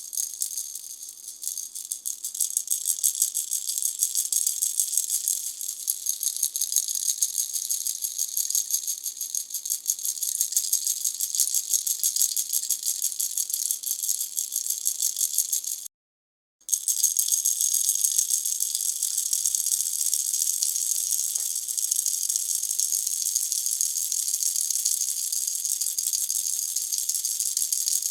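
Pineapple-shaped baby rattle shaken continuously, a dense fast rattle of small beads. It cuts out completely for about half a second midway, then resumes.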